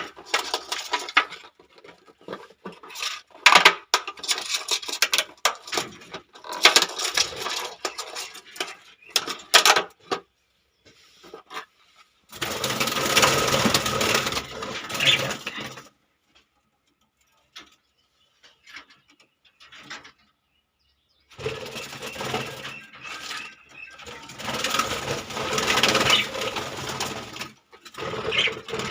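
Rattling and clicking handling noises from a budgie's carry box and the aviary as the bird is let out, with two longer stretches of noisy scraping.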